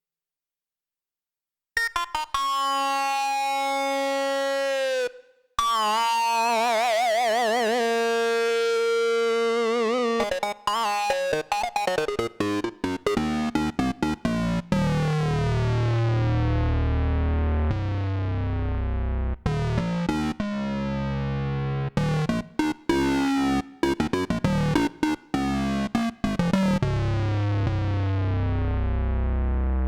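Roland JX-8P analogue polysynth playing a factory patch. It comes in about two seconds in with a held chord, then a chord with wobbling vibrato, then a busier run of repeated chords over bass notes.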